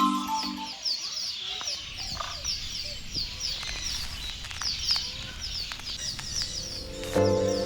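Birds calling, with a high, short chirp repeated about three times a second over a low background rumble. Music stops about a second in and comes back near the end.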